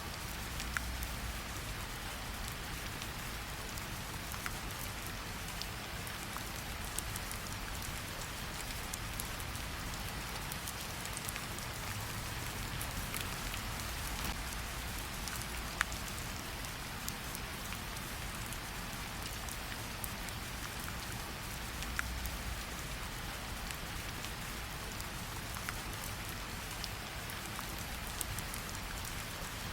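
Steady rain, with a fireplace's occasional sharp pops over it, a few scattered through the stretch.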